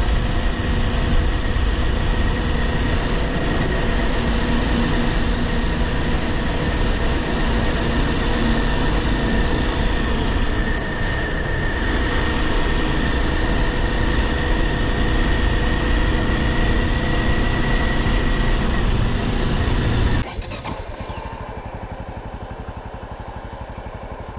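Kawasaki Ninja 400 parallel-twin engine running steadily. About twenty seconds in, the sound drops suddenly to a much quieter, evenly pulsing level.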